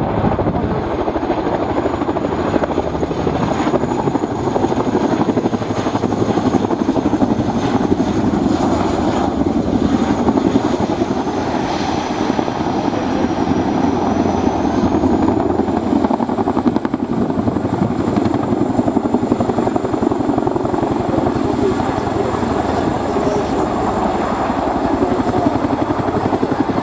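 Boeing CH-47 Chinook tandem-rotor helicopter flying past, its twin rotors giving a fast, continuous beating thud with a thin high turbine whine on top that dips slightly in pitch midway and then comes back up.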